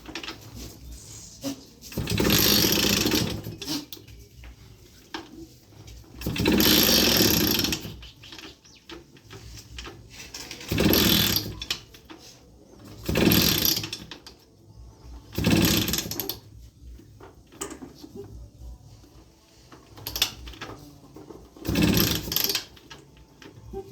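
Bajaj M80's small two-stroke engine idling and being revved in short blips, about seven times, each lasting about a second before dropping back to idle.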